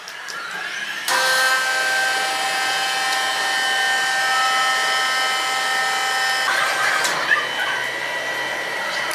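Sawmill saw cutting through wood, a steady high-pitched machine whine with several fixed tones over a hiss. It starts abruptly about a second in and changes character near the end.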